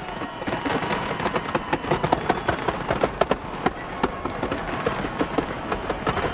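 Fireworks display going off: a dense, irregular string of sharp bangs and crackles, several a second, loudest a little past the middle.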